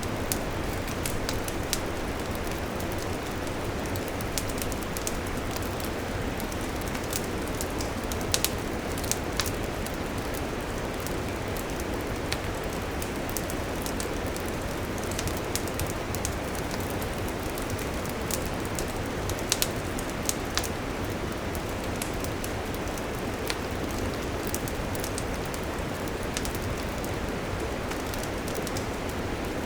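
Wood campfire burning: a steady hiss dense with quick crackles and pops, with a few louder pops scattered through.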